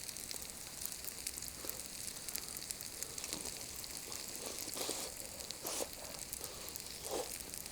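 Faint steady crackling and sizzling from a Swedish torch log fire with chicken cooking on an iron griddle over it, with a few soft short rustles in the middle.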